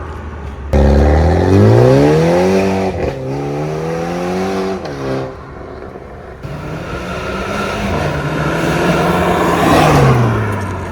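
Mini Cooper JCW GP's 2.0-litre inline-four running through an aftermarket valvetronic catback exhaust. It accelerates hard with a rising note, shifts gear about three seconds in, and backs off near five seconds. A second pull builds from about six and a half seconds, peaks near ten and fades.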